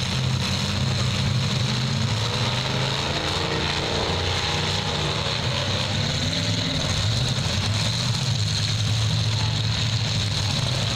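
Several demolition derby cars' engines running together in a loud, steady drone, with engines revving up and down around the middle.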